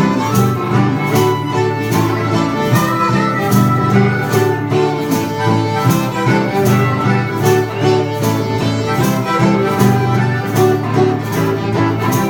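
Instrumental break of a country song: a fiddle leads over guitar, with a steady beat.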